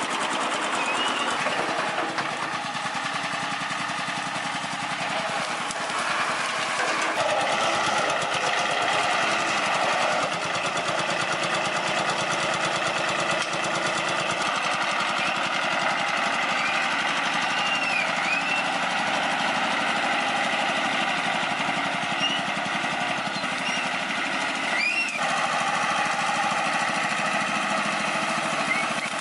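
An engine running steadily, with a dense, unchanging mechanical drone.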